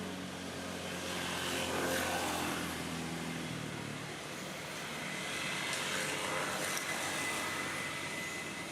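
A motor engine running past, its steady hum slowly dropping in pitch and fading out about three and a half seconds in, leaving a steady outdoor hiss.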